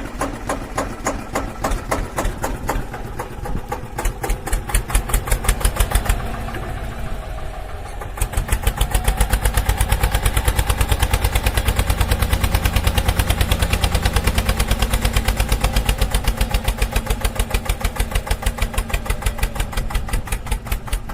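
Engine running with a regular, fast thudding beat. The beat smooths out for a couple of seconds about six seconds in, then comes back steady.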